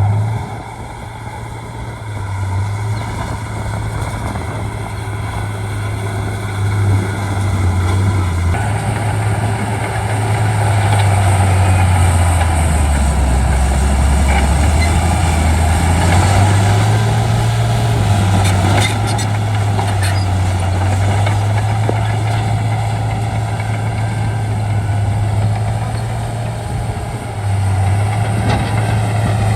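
Shantui D95 bulldozer's diesel engine working under load, its pitch rising and falling as the throttle and load change and dropping lower for a couple of seconds near the middle, with a few short clanks a little past the middle.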